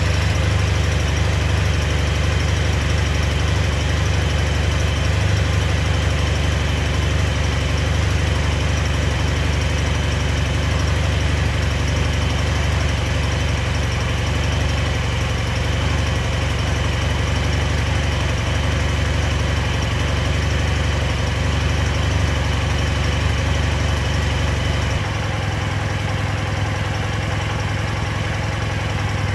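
Kawasaki W800's air-cooled parallel-twin engine idling steadily through its exhaust, still cold after a winter start following months unused. The idle becomes a little quieter about 25 seconds in.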